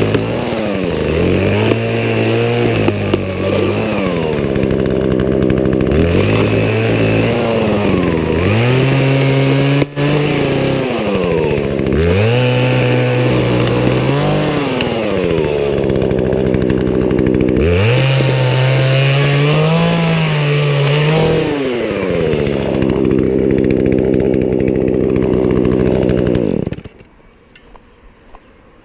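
Poulan Pro gas chainsaw running hard, its engine pitch repeatedly sagging and climbing back every few seconds as it is worked. It stops abruptly near the end.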